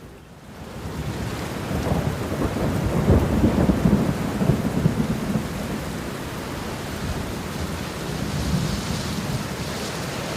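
Steady heavy rain with a long roll of thunder that swells about two seconds in and dies back by about six seconds; the rain fades up from a brief dip at the start.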